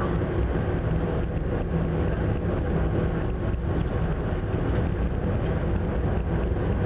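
Steady low drone of the Ogasawara Maru passenger ferry's engines under a continuous rushing noise from the rough sea.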